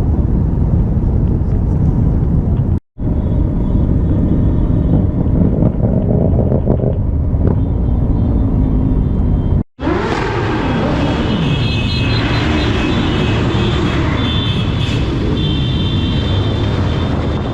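Many motorcycle engines running together in a large group, with engines revving up and down in the second half. The sound cuts out abruptly twice.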